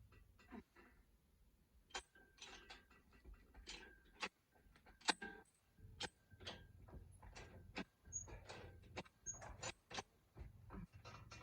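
Faint, irregular metallic clicks and knocks, about one or two a second, as the engine and transmission are worked loose and shifted on an engine hoist.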